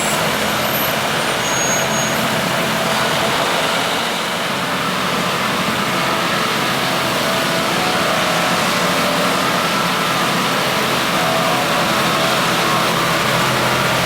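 Vohl snow blower running steadily, its heavy diesel engine humming under a broad, even rushing noise.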